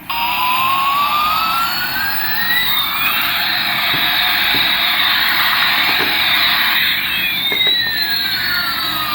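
Electronic jet-engine sound effect from a toy Airbus A380's small speaker: a steady hiss with a whistling tone that rises slowly over about three seconds, then starts falling again near the end.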